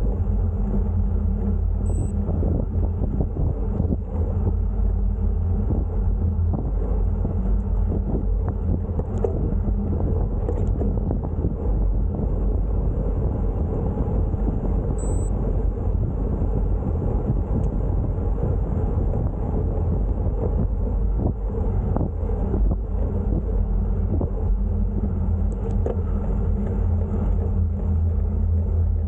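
Steady low rumble of wind and road noise on the microphone of a camera carried along on a road bike ride.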